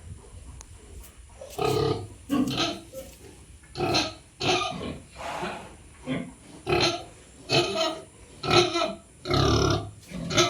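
Pigs grunting: about a dozen short, loud calls in an uneven series, beginning about a second and a half in.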